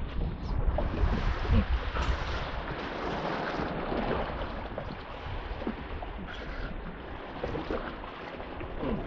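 Wind buffeting the microphone over a steady wash of open-sea noise; the low rumble of the gusts is heaviest in the first couple of seconds, then eases.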